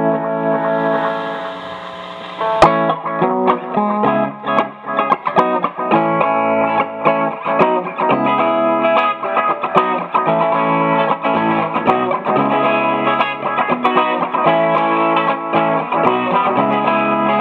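Clean electric guitar, a Fender Telecaster through an Akai analog delay pedal and a Fender Deluxe amp. A held chord rings and fades for about two and a half seconds. Then a sharp click, and a steady run of quick picked notes.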